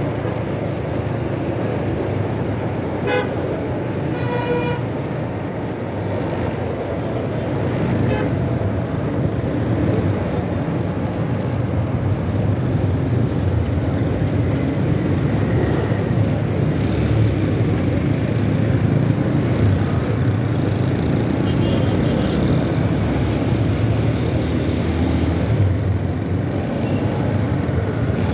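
Riding through city traffic on a motorbike: steady engine, road and wind noise, with a vehicle horn tooting briefly a few seconds in.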